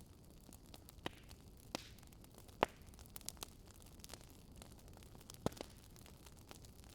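Faint wood fire crackling: a soft steady hiss with a few scattered sharp pops, the loudest about two and a half seconds in.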